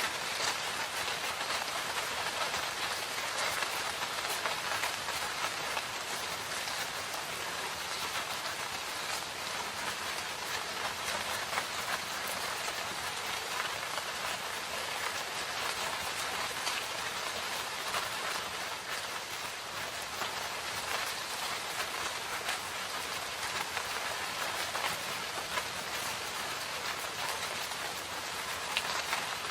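Steady rain falling in a forest: an even hiss of rainfall with a dense scatter of individual drops tapping.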